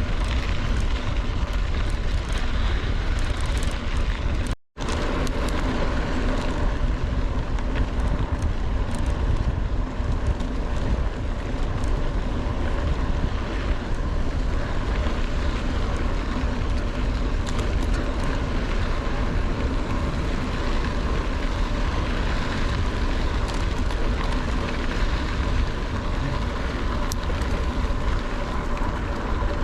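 Wind buffeting the camera's microphone, a steady heavy rumble, while riding a mountain bike downhill on a dirt road. The sound cuts out for a split second about four and a half seconds in.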